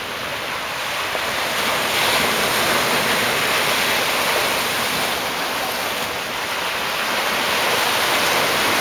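Pacific Ocean surf washing against rocks: a steady rush of water, not crashing, that swells about two seconds in and again near the end.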